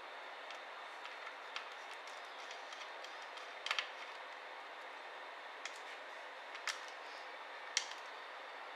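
Scattered small, sharp clicks and taps of laptop parts and tools being handled during disassembly, a double click near the middle and single clicks every second or so, over a steady faint hiss.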